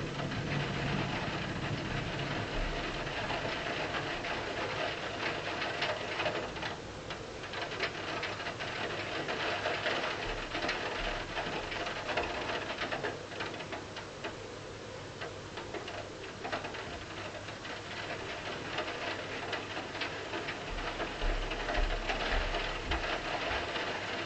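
Steady rain falling, heard as an even hiss made of many close drop hits, with brief low rumbles near the middle and again near the end.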